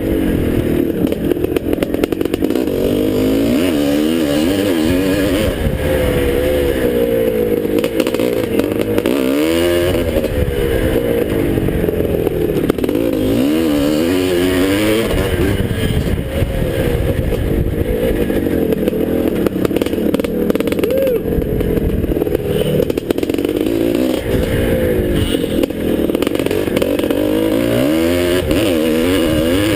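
1981 Husqvarna 430 two-stroke motocross bike engine running hard, its pitch rising and falling continuously as the throttle is opened and closed around the track.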